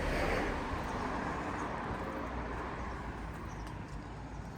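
Street ambience while walking: a wash of noise swells at the start and fades away over about three seconds.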